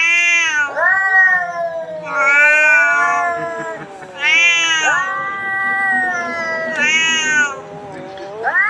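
Domestic cat meowing and yowling over and over: about seven loud, drawn-out calls, each bending up and down in pitch.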